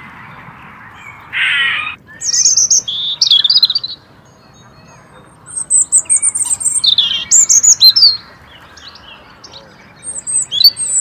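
A single harsh call about a second and a half in, then a small songbird singing quick, high chirping phrases in three bouts.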